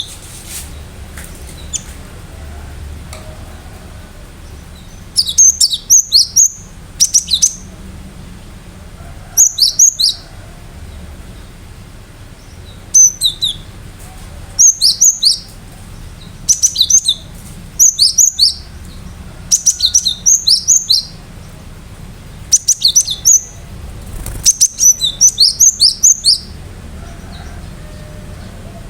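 Cinereous tit (gelatik batu) singing: rapid, sharp, high repeated notes in bursts about a second long. The bursts begin about five seconds in and recur every second or two.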